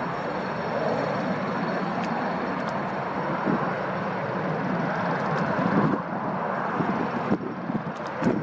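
Airliner engines making a steady noisy rush as the aircraft takes off.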